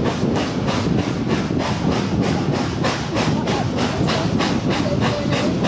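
Steam train running at speed, with an even, steady beat of roughly four to five strokes a second.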